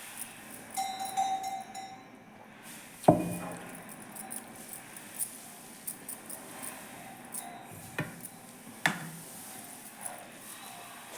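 Dishes and utensils clinking and knocking during a meal: a few sharp knocks, the loudest about three seconds in and two more near eight and nine seconds in, with small clinks between them.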